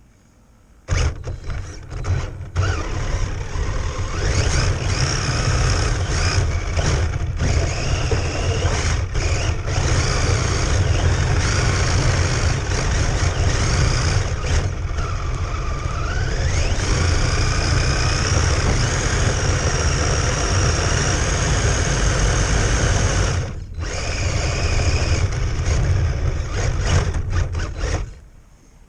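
Radio-controlled car's electric motor whining, its pitch sliding down and back up as the throttle changes, over a heavy steady low rumble. The sound cuts in abruptly about a second in, drops out briefly later on, and cuts off just before the end.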